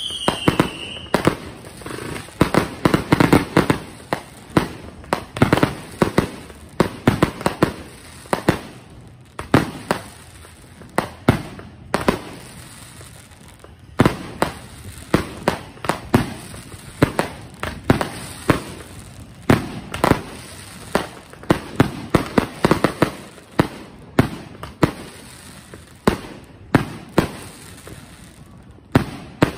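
Aerial fireworks firing in quick succession: a steady string of sharp launch thumps and bursting breaks, several a second at times. A short falling whistle sounds right at the start.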